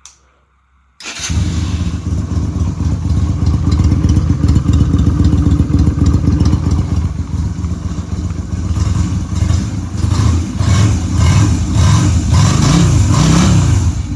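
2013 Yamaha V-Star 250's 249 cc V-twin running in neutral, semi-warmed, through exhaust baffles drilled with six holes, coming in sharply about a second in. In the last few seconds the throttle is blipped a few times, the pitch rising and falling.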